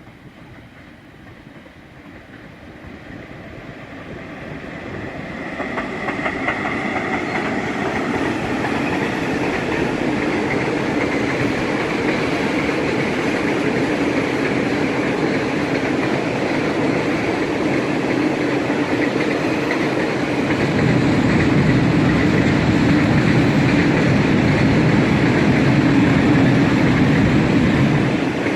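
Freight train on a main line approaching and then rolling past. It grows steadily louder over the first several seconds, then holds a continuous run of wheels on rail, growing louder and deeper again for the last several seconds.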